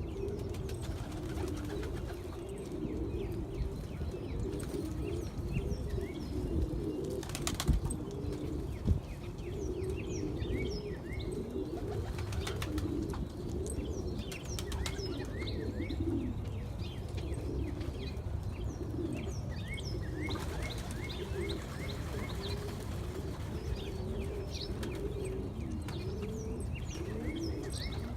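Many birds calling together in low, wavering cooing tones, mixed with short high chirps. There is a sharp knock about seven and a half seconds in and another about a second later.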